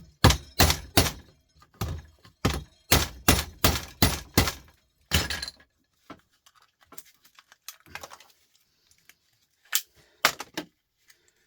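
Hammer striking a plastic three-pin socket held in a vise to break it open around its long security screws: about a dozen sharp blows in quick succession, then a pause with small clicks and two more blows near the end.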